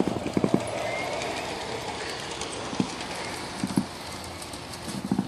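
Garden-railway train running on outdoor track, with rhythmic clicking in the first half-second, then a steady background hiss and a few scattered clicks.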